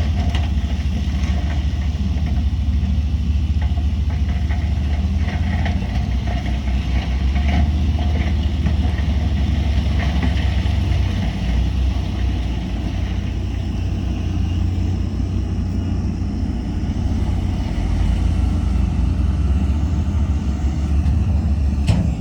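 Heavy diesel earthmoving machinery running steadily with a deep low rumble and scattered faint metallic clanks. A sharp knock comes near the end.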